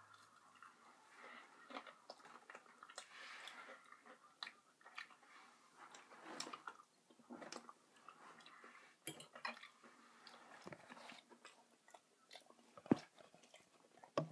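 Close-up chewing of a mouthful of breaded fried chicken in sriracha barbecue sauce, with irregular soft, wet mouth clicks and crunches. A single sharp tap sounds about 13 seconds in.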